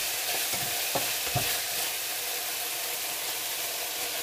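Food sizzling steadily in oil in frying pans as a tomato and tuna mixture is stirred with a spatula. A few short knocks of the spatula against the pan come in the first second and a half.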